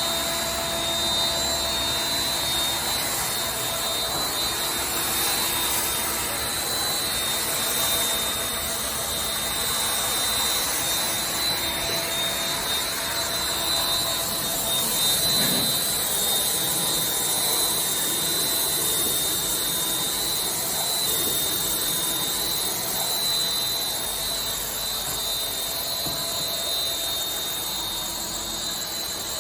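Steady machine noise: a continuous rushing sound with a high whine held through it and no pauses.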